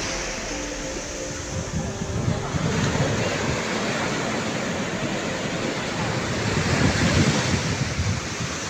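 Sea surf washing onto a beach, with wind rumbling on the microphone. The tail of some background music fades out over the first couple of seconds.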